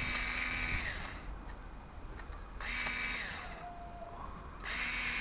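Small cordless power screwdriver running in short bursts, undoing screws from a CD/DVD drive casing: a steady motor whine that runs down about a second in, starts again briefly near the middle, and starts once more near the end.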